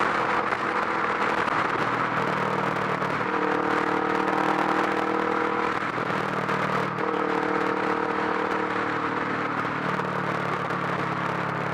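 Kawasaki Vulcan S's 649 cc parallel-twin engine through a Delkevic 8-inch mini exhaust, running steadily while riding, its note shifting in pitch a few times, over continuous wind and road noise.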